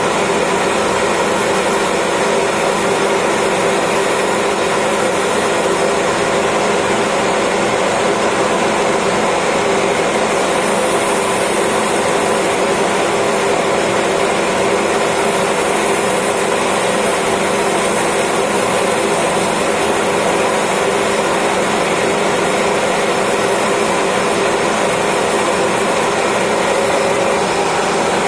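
Lathe running steadily while turning acrylic: a constant machine drone with several steady tones over a hiss, unchanging throughout.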